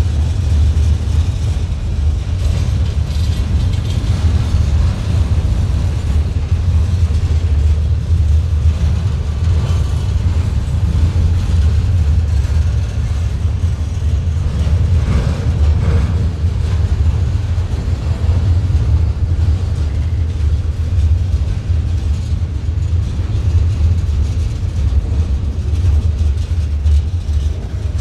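Loaded freight train gondola cars rolling past close by: a steady, loud low rumble of steel wheels on the rails.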